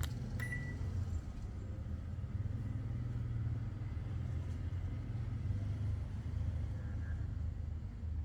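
Panasonic Eolia split air conditioner running with a steady low hum. A click and a short high beep come about half a second in.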